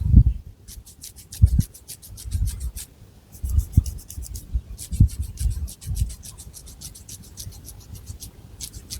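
Long fingernails scratching through thick hair on the scalp in rapid, even strokes, about ten a second, with a short pause about three seconds in. Dull low bumps sound between the strokes.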